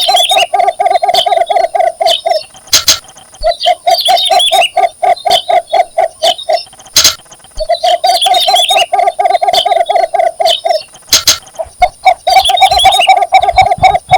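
Cinnamon bittern giving its mate-seeking advertising call: four bouts, each a rapid run of low, evenly repeated clucking notes lasting a couple of seconds. A sharp click comes shortly before each bout.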